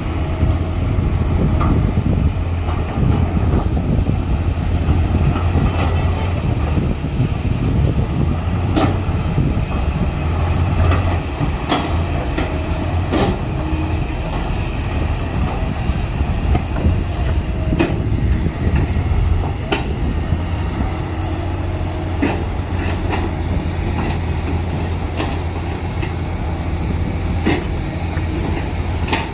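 LiuGong crawler bulldozer's diesel engine running steadily with a deep drone, with scattered sharp metallic clanks from its steel tracks.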